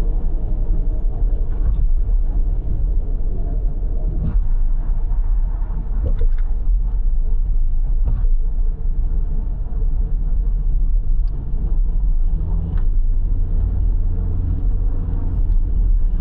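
Car driving on an expressway: a steady low rumble of road and engine noise, with a few faint clicks now and then.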